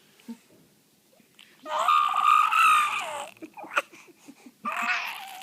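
A baby making high-pitched squealing, cry-like vocal noises: one long squeal a little under two seconds in, a sharp click a little later, and another squeal starting near the end.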